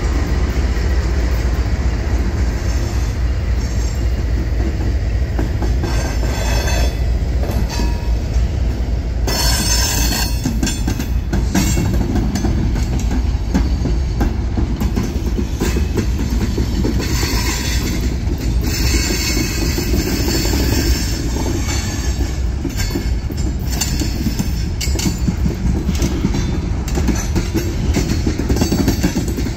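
CSX freight train rolling through a grade crossing: a steady heavy rumble of the train's wheels on the rails, with stretches of high-pitched wheel squeal about ten seconds in and again around twenty seconds in.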